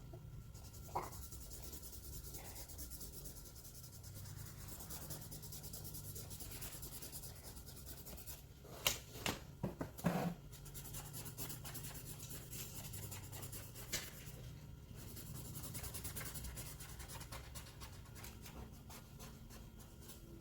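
A drawing tool rubbing steadily on paper as a picture is coloured in red, faint and scratchy, with a few light knocks about halfway through.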